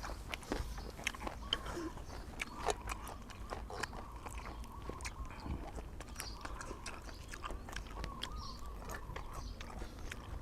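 A person chewing close to the microphone, with irregular wet mouth clicks and smacks, while eating grilled chicken and papaya salad. A faint wavering thin tone runs in the background.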